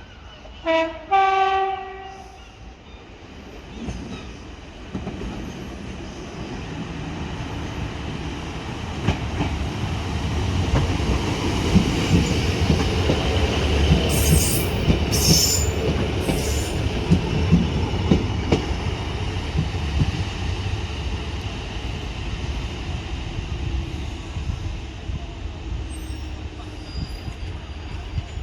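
A diesel multiple unit sounds a two-note horn, a short blast then a longer one about a second in, and then runs through the station, its engine and wheels swelling to a peak with wheel clicks over rail joints and brief squeals in the middle before slowly fading.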